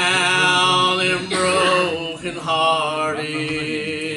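Gospel singing: a voice holding long, wavering notes with no clear words, over a sustained accompanying chord that carries on alone near the end.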